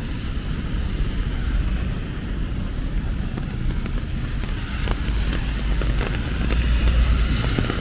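Rain in a city street with traffic: a steady hiss of rain under a low rumble of vehicles. A vehicle passes on the wet road, its tyre hiss and engine rumble building toward the end.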